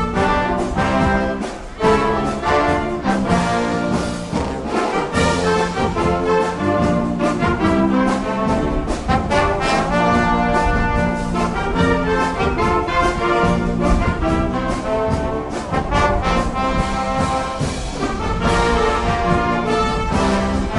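A high school marching band playing a brass-led drill number, with trumpets and trombones over a driving drum beat. Just under two seconds in there is a short lull, then the full band comes back in loudly.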